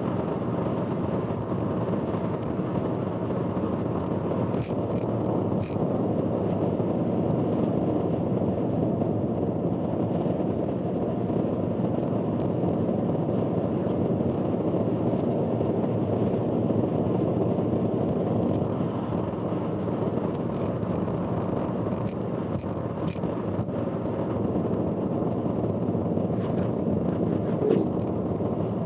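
Steady road and engine noise of a car driving on an expressway, heard from inside the car, with scattered faint ticks.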